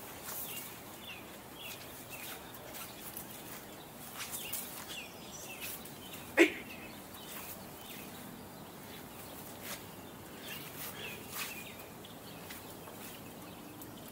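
Small birds chirping again and again, with faint scattered clicks and rustles. About six seconds in comes one loud, brief call that falls sharply in pitch.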